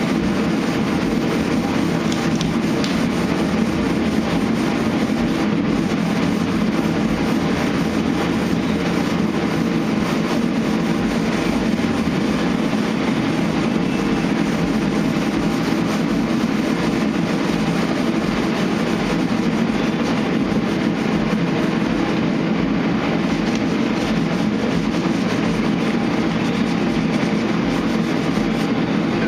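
Dual-action sander running steadily as 320-grit paper smooths filler and primer on a truck body panel.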